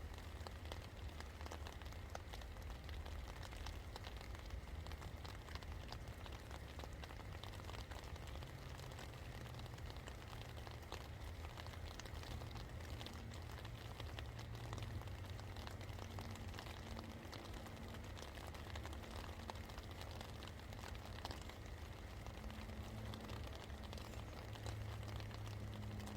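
Steady rain falling, many separate drops hitting close by, over a constant low hum.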